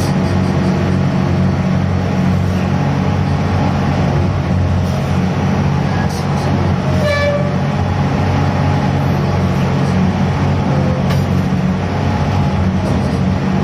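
Diesel machinery of a gut ship's grab crane running with a steady low drone during cargo unloading, with a brief higher-pitched tone about seven seconds in.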